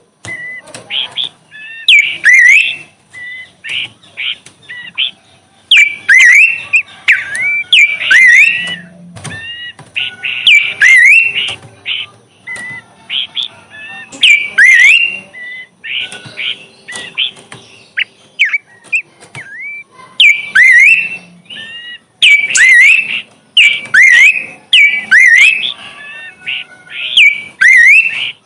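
A bush bird ('burung semak') singing: loud bouts of quick, sliding whistled notes with sharp chips, repeated every second or two with short pauses between phrases.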